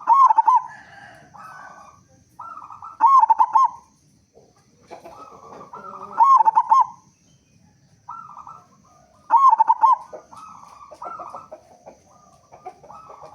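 Local zebra dove (perkutut) singing in loud cooing phrases about every three seconds, four in all, with softer coos between.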